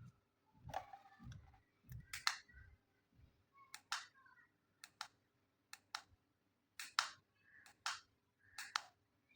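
Small plastic toy kitchen pieces from a miniature play kitchen set being handled and set down: about a dozen sharp clicks and taps at irregular intervals, some with a brief ring after them.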